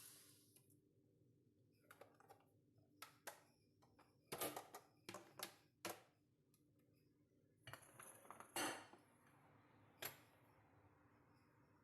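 Dishes and utensils being handled: a string of separate clinks and knocks, then a short scrape about two-thirds of the way through and one last knock.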